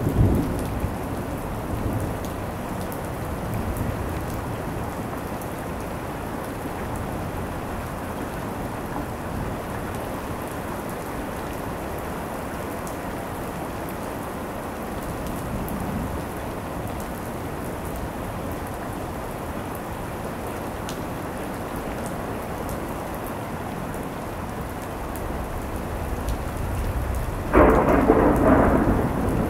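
Steady rain falling through a thunderstorm, with a rumble of thunder at the start. Near the end a sudden loud clap of thunder breaks in and rolls on.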